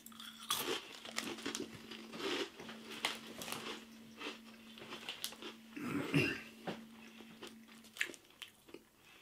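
Crunchy baked cheese snack sticks (Jacob's Mini Cheddar Sticks) being bitten and chewed: a run of irregular crisp crunches that thins out near the end.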